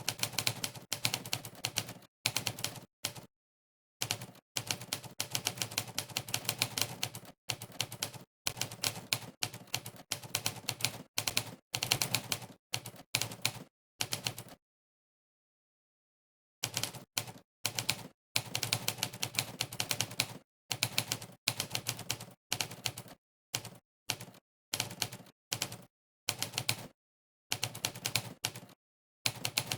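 Monkeytype's typewriter sound effect: a sampled typewriter keystroke clack for every key pressed, coming in quick runs of typing broken by short pauses, with a fully silent gap of about two seconds midway.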